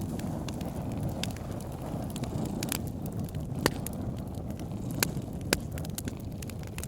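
Wood fire crackling in a fireplace: scattered sharp pops and snaps, a few louder ones around the middle, over a steady low rumble.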